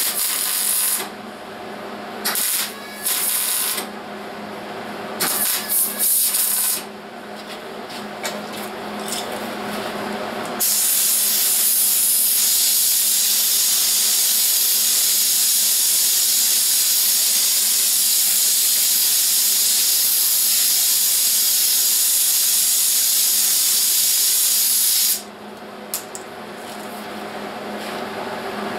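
Welding arc on automotive sheet metal: several short bursts of crackling hiss, then one long run of steady welding hiss lasting about fifteen seconds, which stops abruptly near the end.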